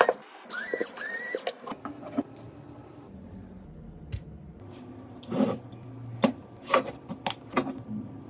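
Small hand tools working on a smartphone's casing and parts: two scratchy, squeaky strokes in the first couple of seconds, then scattered sharp clicks and taps.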